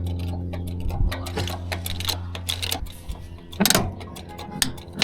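Metal clicking from a jack being worked under the dozer blade, a string of light ticks with two louder clacks near the end, over a low steady hum that slowly fades.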